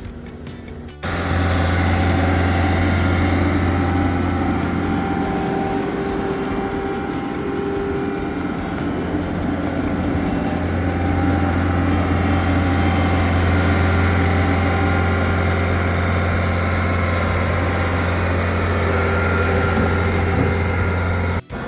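Engine of heavy earthmoving equipment running steadily with a low hum, starting suddenly about a second in and cutting off just before the end.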